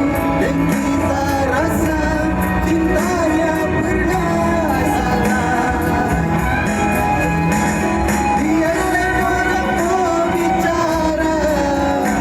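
A voice singing a melody over steady band accompaniment.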